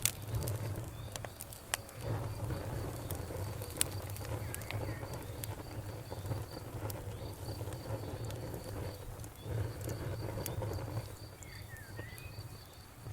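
Wood fire crackling, with scattered sharp pops over a low, steady rumble of burning. A faint, evenly repeating high chirp runs underneath.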